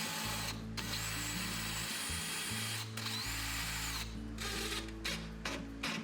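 Power drill running in long stretches with two brief stops, then several short trigger bursts near the end, over background music with a steady bass line.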